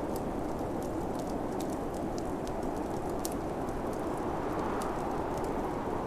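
Snowstorm wind blowing steadily, with a fireplace crackling over it in irregular sharp pops.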